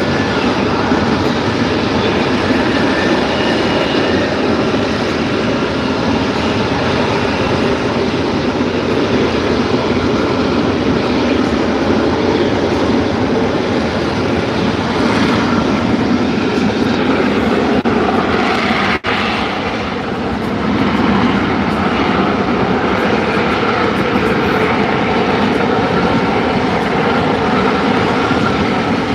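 F-35B Lightning II's F135 jet engine and lift fan running at high power in a STOVL hover: loud, steady jet noise that dips briefly about two-thirds of the way through.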